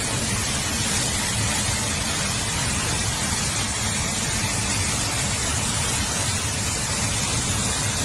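Steady rushing hiss of heavy rain and running floodwater, with a low rumble beneath it.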